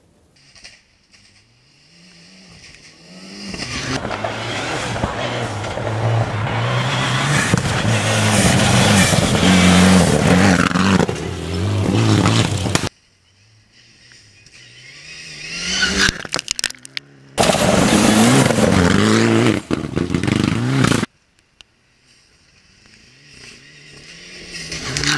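Rally cars at speed on a gravel stage, engines revving hard with pitch climbing and dropping through gear changes. Three separate passes, each building up and then cutting off abruptly.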